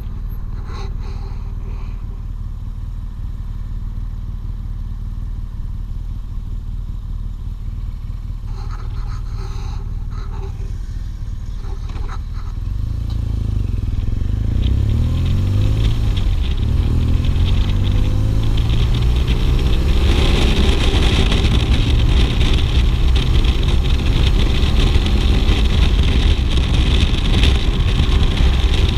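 BMW R 1200 GS boxer-twin engine running steadily at low revs. About twelve seconds in, it revs up, its pitch rising and dropping as the motorcycle accelerates. From about twenty seconds in it is louder, with wind rushing past.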